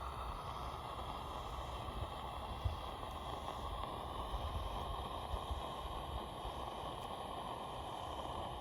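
Shogun string-pull smoke grenade burning with a steady rushing hiss, a few faint crackles, and low wind rumble on the microphone.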